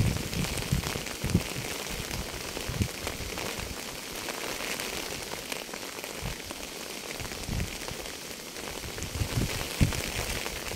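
Steady rain falling on a surface: an even hiss of drops, with occasional dull low thuds scattered through it.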